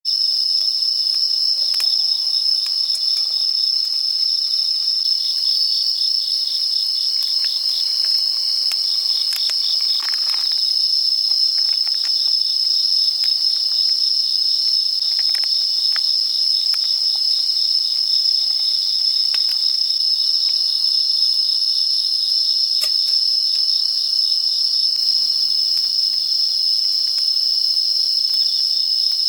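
A chorus of insects: a steady high trill runs throughout, with a second, rapidly pulsing trill beneath it. A few faint clicks and taps sound here and there.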